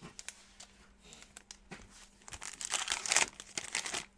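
Plastic trading-card pack wrapper crinkling and tearing as it is opened, a few light handling clicks first and then a dense crinkly burst in the second half.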